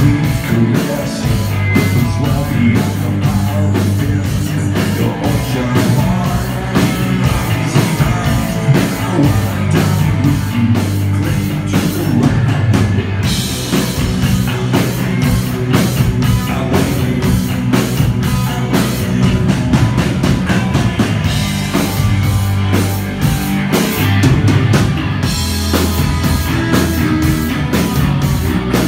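Live rock band music: drum kit keeping a steady beat under sustained bass notes and guitar.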